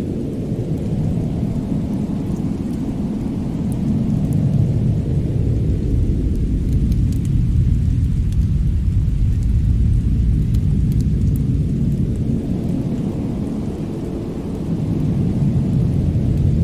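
Snow-and-fireplace winter ambience: a low, steady rumble that swells and eases twice, with faint, sparse crackles from the fire.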